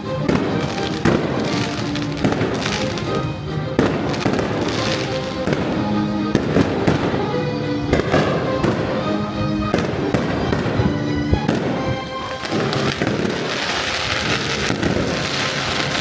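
Fireworks going off, sharp bangs and crackles, over music played through a cruise ship's deck speakers; the crackling grows denser near the end.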